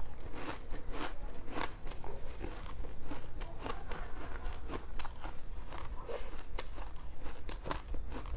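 A person biting and crunching ice close to the mouth, with crisp crunches about twice a second, over a steady low hum.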